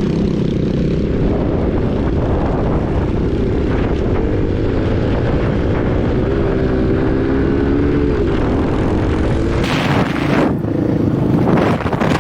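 Husqvarna 501 single-cylinder four-stroke dirt bike engine running under way, its pitch climbing a little about halfway through, then easing off. Near the end, wind buffeting the unprotected microphone swamps the engine.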